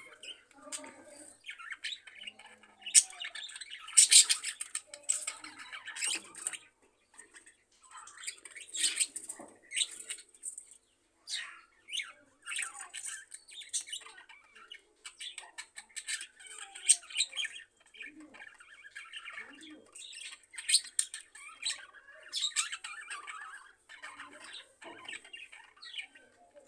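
Budgerigars chattering: a steady stream of short, irregular chirps and squawks, a few of them louder.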